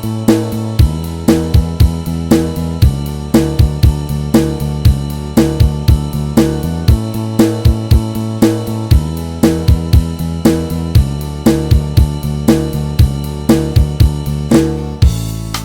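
Band backing track with the guitar part removed: a drum kit plays a steady beat of snare, bass drum, hi-hat and cymbal over bass and keyboard.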